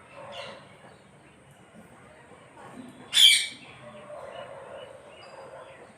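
Parrot calling: a short softer call at the start, then one loud, shrill call about three seconds in, followed by quiet chattering.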